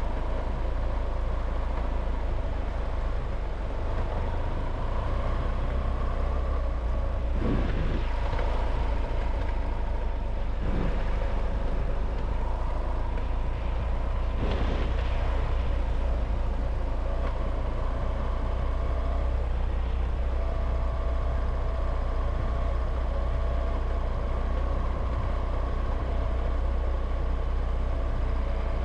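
A vehicle driving along a road: a steady low rumble of engine and road noise with a faint constant whine, and three brief swells of noise about 7, 11 and 15 seconds in.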